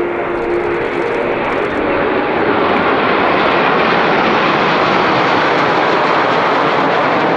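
Jet aircraft of the Blue Impulse team (Kawasaki T-4 trainers) passing during the display, a roar that swells over the first few seconds, holds in the middle and eases near the end.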